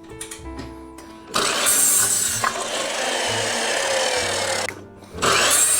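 A power saw cutting through wood, running loud from about a second and a half in, with a short pause near the end before it cuts again.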